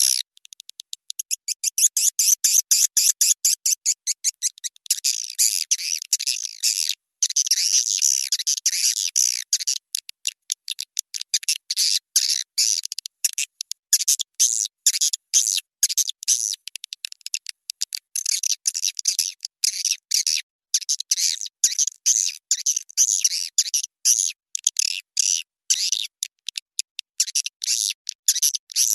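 Recorded swiftlet calls of the kind played in swiftlet houses to lure the birds: fast runs of high-pitched chirping twitters that start and stop in quick bursts, with short gaps, and no low sound at all.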